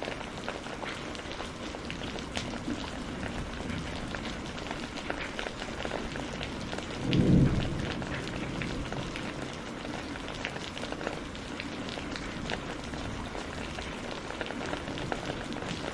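Steady rain falling, with scattered sharp drops, and a short low rumble of thunder about halfway through, the loudest moment.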